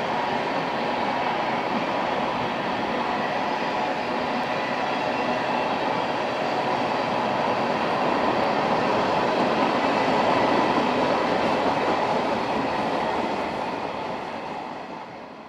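Freight train cars (covered hoppers and empty bulkhead flatcars) rolling past, their steel wheels giving a steady rumbling, rattling noise on the rails. The sound swells slightly past the middle, then fades out near the end.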